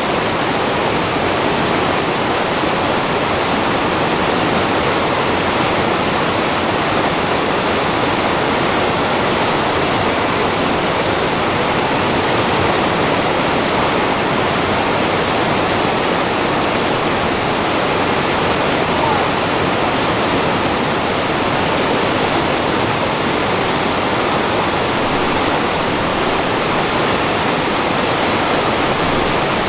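Mountain stream water rushing over rocks, a steady loud rush with no change.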